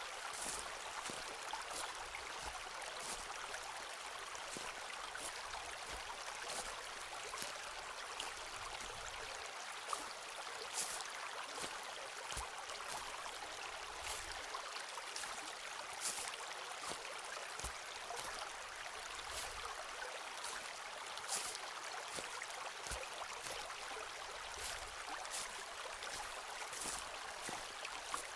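Footsteps walking along a forest path, short sharp steps at roughly one a second, over the steady rush of running water from a stream.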